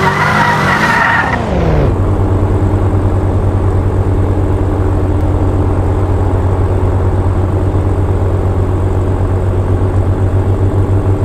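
Drift car engine revving with tyres squealing, then about two seconds in the engine note falls away and it settles into a steady, throbbing idle.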